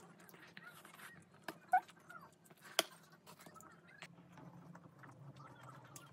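Close-miked chewing of cheese-covered tteokbokki rice cakes: soft wet mouth sounds and small squelches, with scattered sharp clicks. The loudest click comes about three seconds in.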